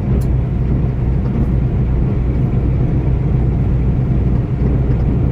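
Steady low rumble of a running vehicle, an even drone of engine and road noise with no change in pace.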